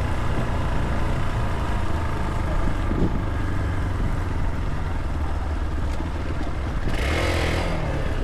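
Motorcycle running at a steady pace while riding, a constant low engine rumble mixed with wind noise. About seven seconds in there is a brief, louder hiss.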